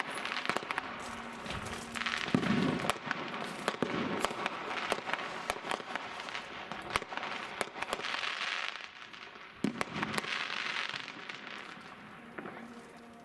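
New Year's fireworks going off, many at once: a run of sharp bangs and crackling, with a deeper boom about two seconds in. The bangs thin out near the end.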